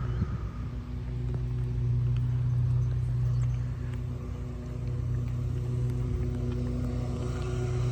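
A motor vehicle engine idling with a steady low hum, with a few faint ticks.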